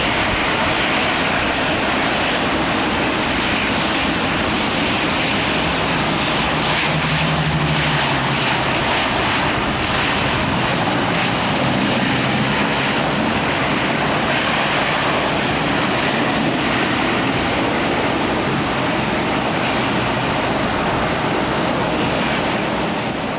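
Jet airliner engines running under the steady hiss of heavy rain, fading out near the end.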